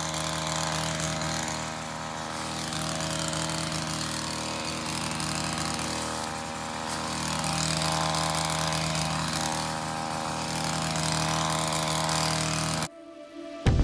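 Small petrol engine of trail-clearing equipment running steadily at working speed, with slight swells in level, then cut off suddenly about a second before the end.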